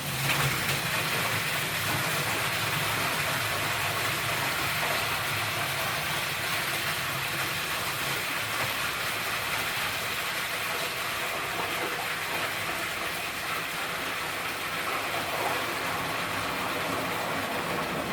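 Steady rushing noise of a vehicle on the move, even and unchanging.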